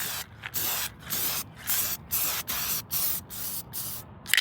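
Aerosol spray paint can hissing in short repeated bursts, about two a second, as paint is sprayed onto a car's trim.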